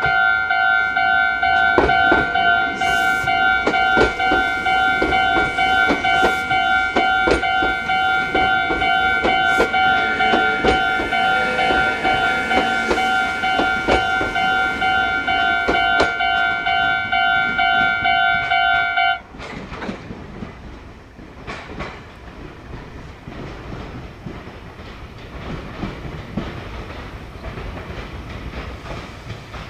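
Meitetsu train wheels clacking over rail joints and pointwork, with a steady high ringing tone over it that cuts off suddenly about nineteen seconds in. Quieter clacking continues after that.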